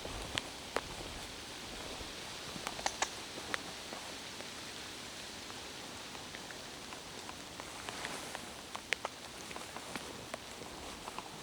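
Rain falling in a forest: a steady hiss with scattered sharper ticks of nearby drops, several of them in a cluster about three seconds in and again near nine seconds.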